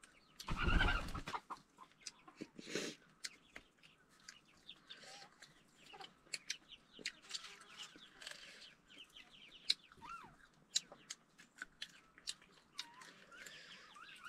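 Chickens clucking: a loud call about a second in, then short wavering calls in the second half, over scattered small clicks of eating and chewing.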